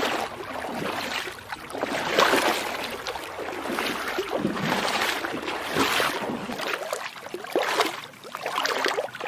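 Feet wading through shallow water, with a splash at each step every second or two.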